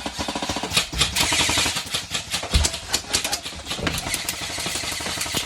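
Airsoft guns firing: a rapid, evenly spaced full-auto burst in the first second, then scattered sharp shots and clicks.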